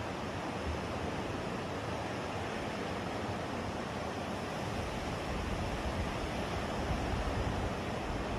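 Lake waves washing in steadily under a strong wind. About halfway through, wind starts rumbling on the microphone.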